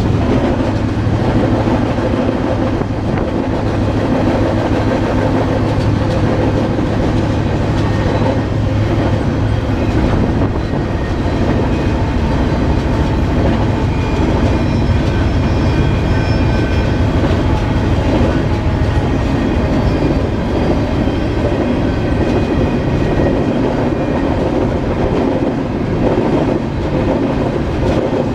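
Moving freight train heard from aboard one of its cars: a loud, steady rumble of wheels on rail with clickety-clack, and faint thin metallic tones midway through.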